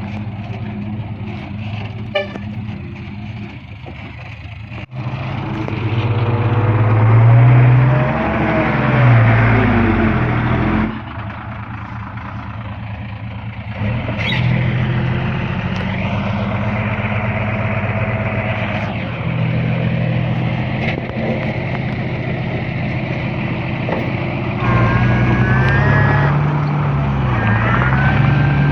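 Heavy diesel earthmoving machinery, bulldozer and dump truck engines, running under load. The engine pitch rises and falls several times as they rev up and ease off, and the sound jumps abruptly in level a few times.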